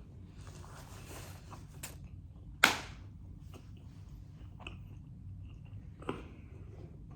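Close-up chewing of a crispy fried chicken sandwich, with small crunches throughout. A sharp, loud crunch comes a little under three seconds in, and a smaller one about six seconds in.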